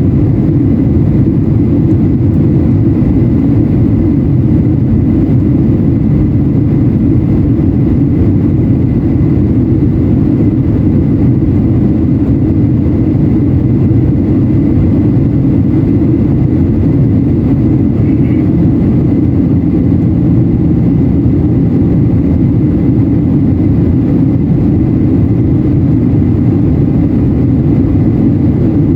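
Steady low rumble of engine and airflow noise inside the cabin of a Boeing 737-800 during descent, its CFM56-7B turbofans running, with a faint steady high whine above the rumble.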